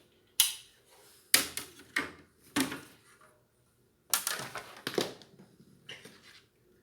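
Hard parts and tools clattering and knocking as they are handled and set down, a string of sharp separate knocks with a quick run of them about four seconds in.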